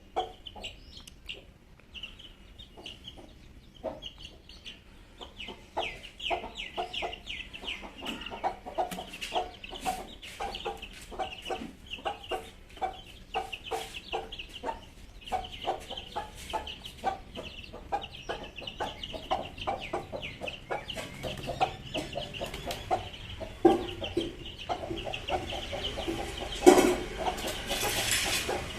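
A group of Parrot Beak Aseel chicks peeping constantly in short, falling high chirps, mixed with lower, rapid clucking notes. There is a single louder knock near the end.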